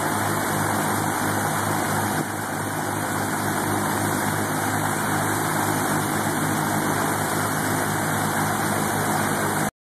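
Piper PA-31-350 Chieftain's piston engines running steadily with propellers turning, a low, even drone with a dip in level about two seconds in. The sound cuts off abruptly near the end.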